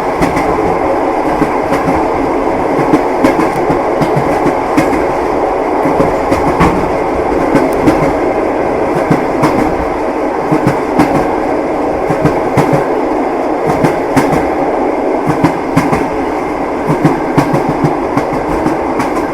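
Train carriage wheels running over the rails: a steady rumble with frequent short clacks at irregular intervals.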